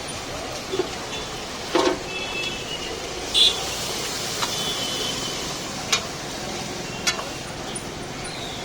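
Busy street ambience: a steady wash of traffic noise with four short sharp knocks or clatters, the loudest about three and a half seconds in.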